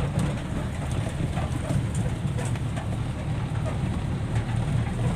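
Hino dump truck's diesel engine running steadily with a low rumble and light rattles.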